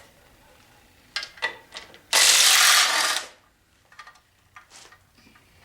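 A power wrench runs in one steady burst of about a second, loosening a clutch pressure-plate bolt. A few sharp metal clicks of tool handling come just before it.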